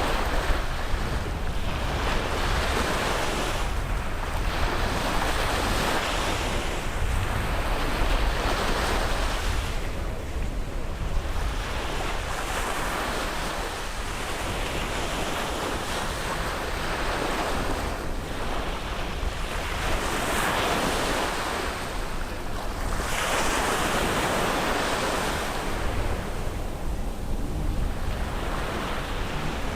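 Sea waves breaking and washing up on a sandy shore, the surf swelling and falling back about every four seconds, over a steady low rumble.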